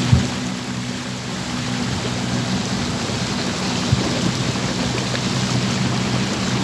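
A boat motor running steadily, with water rushing past and wind noise over it. There are short thumps just after the start and about four seconds in.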